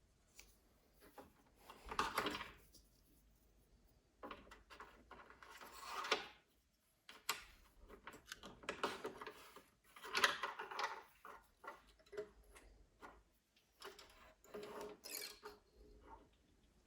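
Scattered clicks, knocks and short scraping or rustling bursts of small parts and tools being handled while a Singer Curvy sewing machine is worked on, with quiet gaps between.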